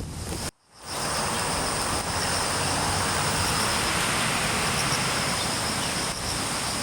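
Steady outdoor rushing noise from typhoon weather, with insects chirping in two thin, high, steady tones. It starts after a short gap about half a second in.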